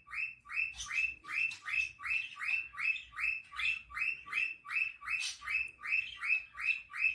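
Rapid, evenly repeated high chirps, about three or four a second, keeping a steady machine-like beat.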